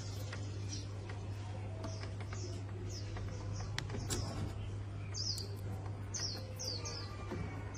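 A small bird chirping in short, high, falling notes, in quick runs, over a steady low hum and a few scattered clicks.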